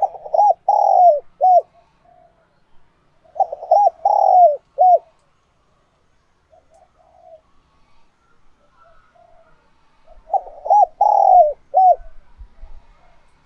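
Spotted dove cooing: three phrases of several short coos, each with a longer drawn-out middle note. The last phrase comes after a longer pause. This is the male's cooing song, used as a call-bird recording to lure wild doves.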